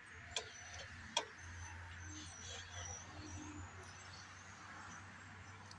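Faint birds chirping in the background over a low steady hum, with two sharp clicks in the first second or so.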